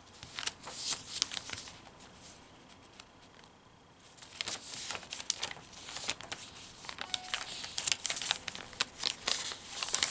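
Paper pages of a handmade junk journal rustling and crinkling as they are turned and handled, in irregular quick rustles. Quieter for a couple of seconds, then busier from about four seconds in.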